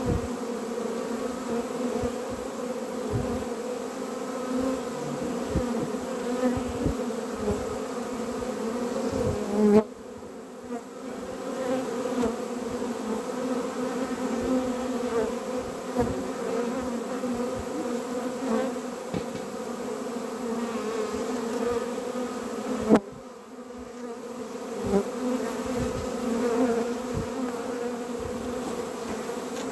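Honeybees buzzing in a steady, pitched hum at a beehive, with occasional low bumps. Two sharp knocks, about ten and twenty-three seconds in, are each followed by a brief dip in the buzz.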